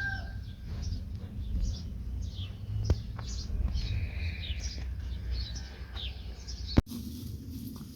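Small birds chirping repeatedly over a low rumble, with the end of a rooster's crow at the very start. There is a single sharp click about three seconds in and a louder knock near the end.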